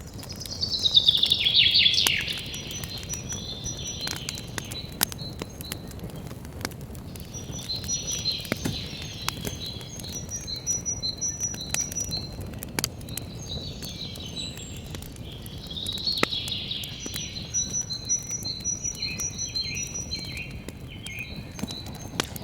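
Campfire crackling, with scattered sharp pops over a low steady rush, while songbirds sing: a loud falling trill in the first two seconds, then recurring bouts of song and strings of high chirps.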